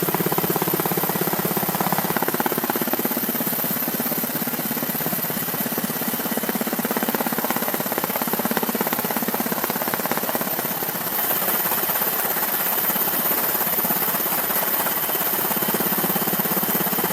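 Steady mechanical noise with a fast, even pulse, like a running engine or rotor, shifting slightly in tone about two seconds in and again about eleven seconds in.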